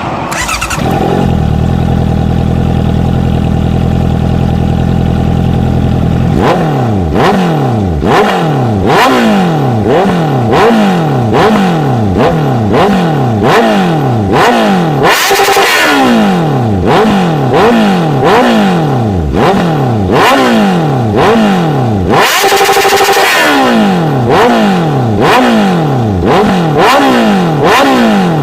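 Honda CBR650F inline-four engine through an aftermarket exhaust, idling steadily for about six seconds and then revved in a long series of quick throttle blips, each rising sharply and falling back.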